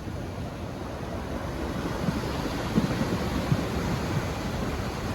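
Steady rushing of wind and sea surf, with wind gusts buffeting the microphone in short low thumps from about two seconds in.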